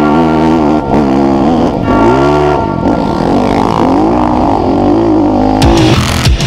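Dirt bike engines revving up and down over and over, with music playing underneath.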